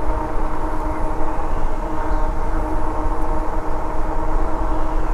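Wind buffeting the microphone of a moving e-bike, a heavy steady rumble, over the steady whine of the Lectric e-bike's hub motor under load against a strong headwind.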